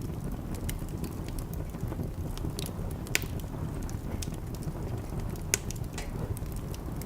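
Wood fire burning in a fireplace: a steady low rumble of the flames with scattered sharp crackles and pops, two of them louder, a little after three seconds and at about five and a half seconds.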